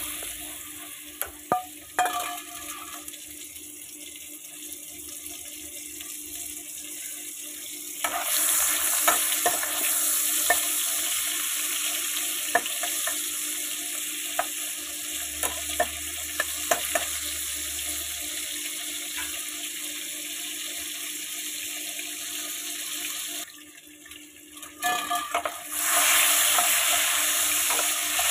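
Prawns coated in turmeric and chilli sizzling in hot oil in a non-stick pan, with a spatula scraping and tapping against the pan as they are turned. The sizzle grows louder about eight seconds in, drops off for a couple of seconds near the end, then comes back.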